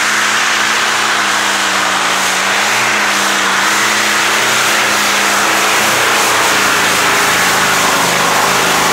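Radial aircraft engine of a pulling tractor running steadily at a fairly constant speed, its pitch dipping slightly about six seconds in.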